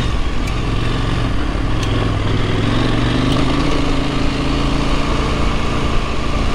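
Husqvarna Norden 901's parallel-twin engine running steadily while riding on a gravel track, under a constant rush of wind and tyre noise.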